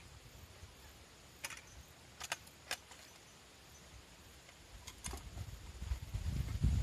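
Stones clacking against each other a few times, sharp separate knocks, as rocks are stacked into a stone fire-pit hearth. A low rumble builds near the end.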